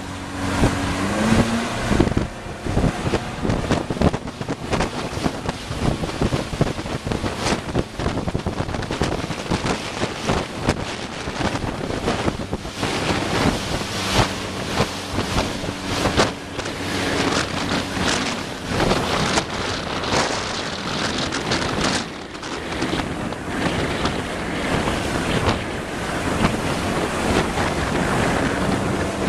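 Strong wind buffeting the microphone in irregular gusts over splashing water, with the steady hum of a motorboat engine showing through near the start, in the middle and near the end.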